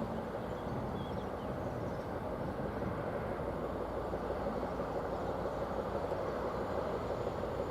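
Train running on the track with a steady rumble.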